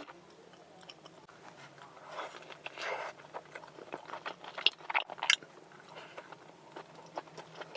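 Close-miked eating sounds: crunchy bites and chewing with short mouth clicks, coming in irregular bursts that are loudest around the middle.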